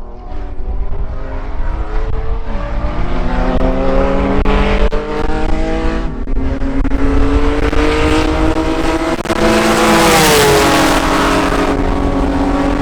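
Race car engine at full throttle, its pitch climbing steadily and dropping briefly at gear changes, with a rush of wind noise about ten seconds in.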